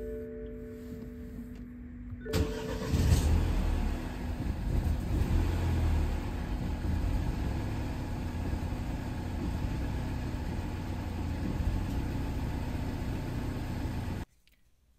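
BMW N13 four-cylinder petrol engine cranked on the starter and catching about two seconds in, uneven for a couple of seconds, then settling into a steady idle until it cuts off abruptly near the end. A cold start made hard by a faulty coolant temperature sensor that reads the engine as already warm.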